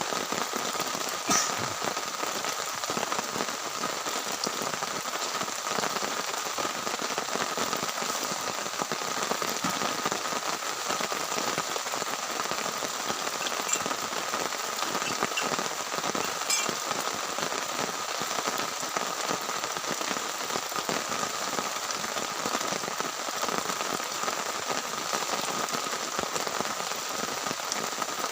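Heavy rain falling steadily, an even hiss of drops with a few sharper single drop taps.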